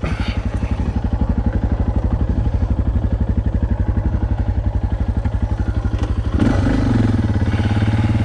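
Suzuki DR650 single-cylinder engine idling with an even, rapid beat of firing pulses. About six and a half seconds in, the throttle is opened and it gets louder.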